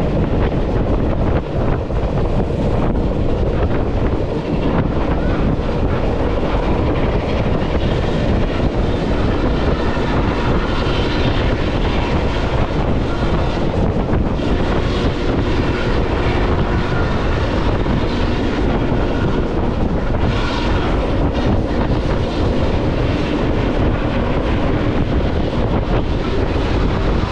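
Passenger train rolling along the track: a steady rumble of the cars running over the rails, with wind buffeting the microphone.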